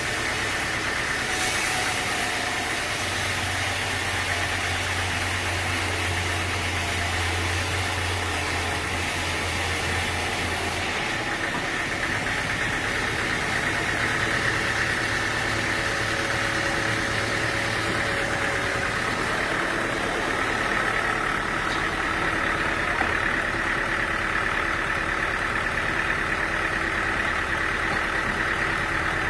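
Sawmill machinery running steadily with an engine-like drone. About eleven seconds in, a low hum stops and the high hiss drops off, as if part of the machinery changed what it was doing.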